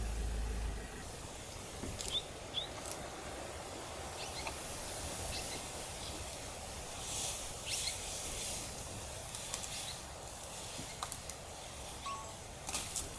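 Open-air bush ambience: a steady background hiss with a couple of short bird chirps about two seconds in and scattered brief clicks and rustles. A low hum cuts off within the first second.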